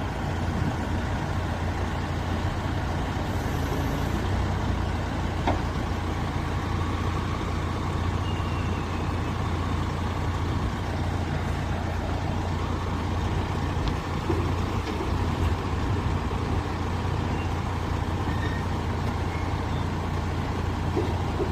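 Heavy vehicle engine running steadily, with a constant low drone.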